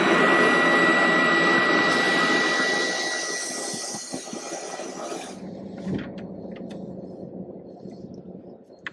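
Vacuum cleaner running with a steady high whine and loud rushing hiss. About five seconds in the hiss drops away and a quieter, lower rumble carries on, fading.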